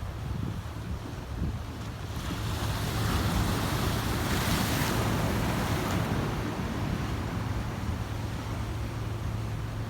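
Atlantic Ocean waves surging onto rocks: a wave washes in about two seconds in, is loudest about halfway through, then recedes, over a steady low rumble of surf.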